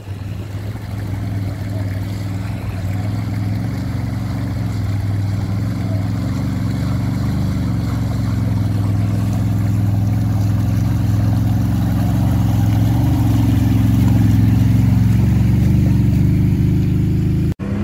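Off-road ATV engine running steadily and slowly growing louder. It breaks off abruptly near the end.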